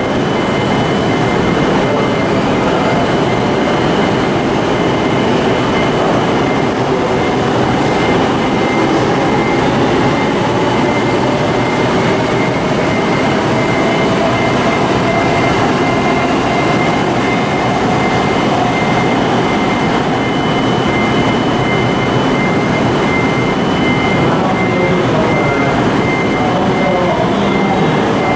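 JR electric commuter trains running through the station tracks, including a Keihin-Tohoku Line train: a steady rumble of wheels and running noise, with a motor whine that glides slowly in pitch in the middle. A high tone pulses evenly above it.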